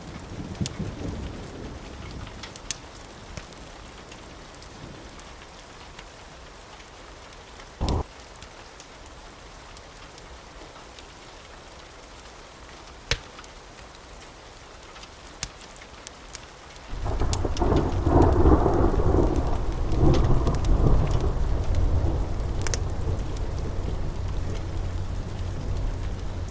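Steady rain falling, with scattered sharp clicks, then a loud thunderclap about two-thirds of the way through that rolls on as a deep rumble, slowly easing.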